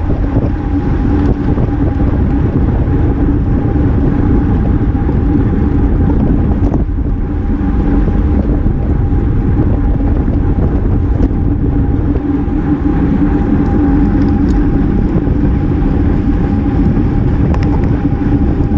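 Wind rushing over the microphone of a bike-mounted action camera while riding, with a steady low hum running underneath.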